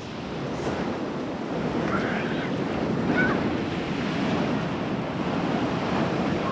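Rough ocean surf breaking and washing up a sandy beach, a steady rush that swells over the first few seconds, with wind buffeting the microphone.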